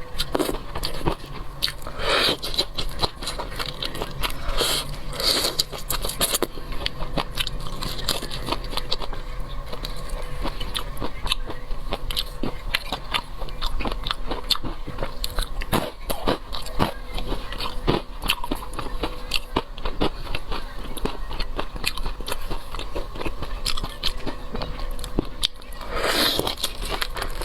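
Close-up crunchy biting and chewing of crispy fried stuffed shrimp, a dense, irregular run of crackling crunches.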